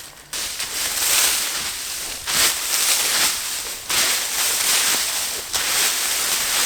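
Loud rustling and crunching of dry leaf litter and sticks as a woodland debris shelter is pulled apart, coming in surges every second or two.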